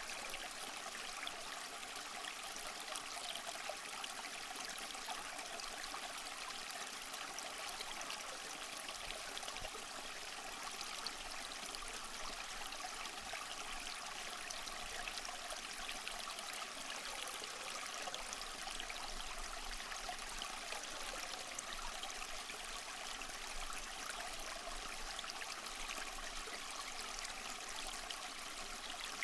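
Small mossy waterfall: water splashing and trickling steadily over rocks, with a fine splattering texture and no change throughout.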